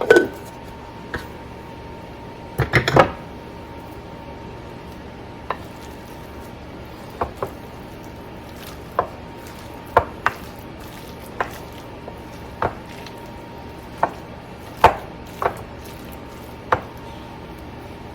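A utensil knocking and scraping against a mixing bowl while stirring a thick mixture of cream cheese and shredded chicken. There is a quick cluster of knocks about three seconds in, then single knocks about every second, over a faint steady hum.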